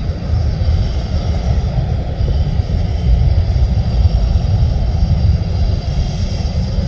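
Jet airliner's engines running on the ground as it taxis, with a steady heavy low rumble and a faint high whine.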